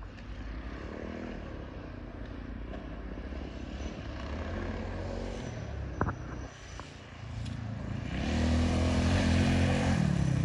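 Small off-road bike engines revving and changing pitch as riders come through the woods, echoing among the trees, with one sharp knock about six seconds in. The engines grow much louder about eight seconds in as a bike comes close.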